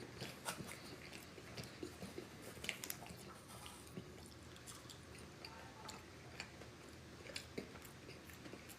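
A person eating chicken wings close to the microphone: bites and chewing with irregular small wet clicks and a light crunch now and then.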